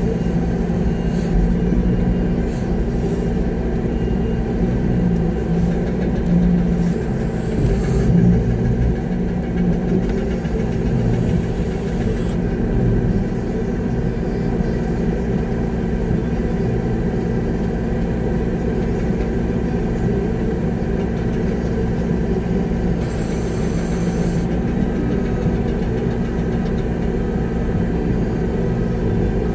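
Concrete mixer truck's diesel engine running steadily, heard from inside the cab during a pour, with a couple of brief high hisses partway through.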